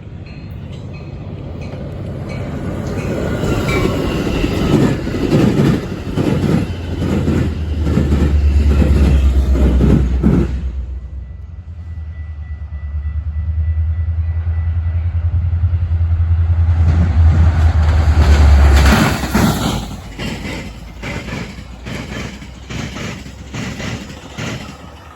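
A train passing close by: quick, irregular wheel clatter building over the first few seconds, with a deep steady diesel engine drone through the middle. A second run of clatter comes near the end and fades as the train moves away.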